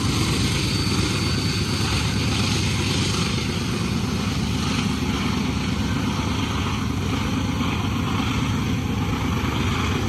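Union Pacific freight train's rear distributed-power (DPU) diesel locomotives passing under load, pushing the train: a steady, loud diesel rumble.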